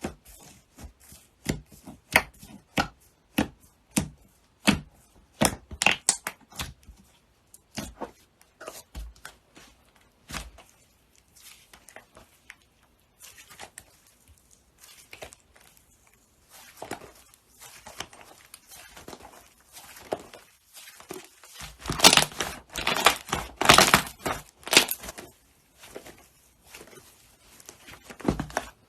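Slime being worked by hand, giving irregular sharp crackles, snaps and pops. The crackling comes a few times a second at first, thins out in the middle, and turns into a loud, dense burst of crackling about two-thirds of the way through.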